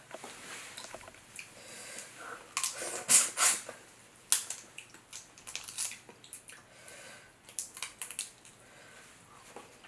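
Close-up wet eating sounds of sauce-covered Dungeness crab: sucking, chewing and squishing with scattered small clicks. The loudest wet bursts come about three seconds in and again just past four.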